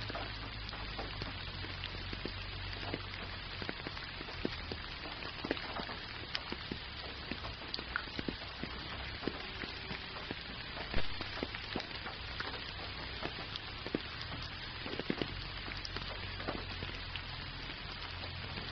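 Gentle rain: a steady hiss with many scattered individual drops ticking, one drop louder than the rest about eleven seconds in.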